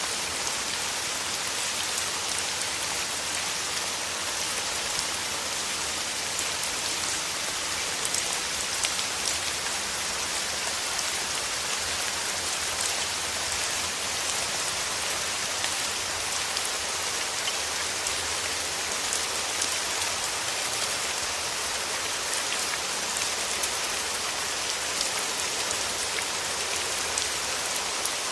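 Steady rain: an even hiss with many small, distinct drop hits scattered through it, holding constant throughout.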